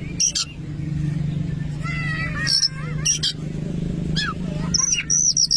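Oriental magpie-robin (kacer) singing: scattered sharp whistled notes, a short warbled phrase about two seconds in, and a quick run of repeated high notes near the end. A steady low hum runs underneath.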